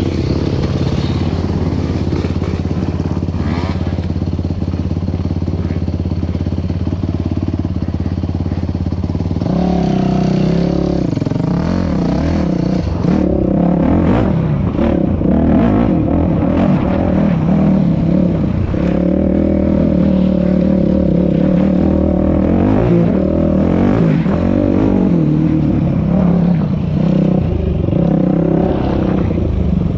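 Dirt bike engine running at a steady low speed, then from about a third of the way in revving up and down as the bike is ridden.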